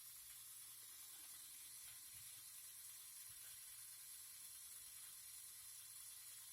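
Near silence: a faint, steady high-pitched hiss, like recording noise.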